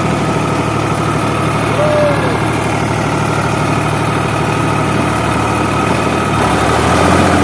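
Sonalika DI 47 tractor's diesel engine idling steadily, growing a little louder about six seconds in. The rotavator behind it is not turning, so the engine runs without tillage load.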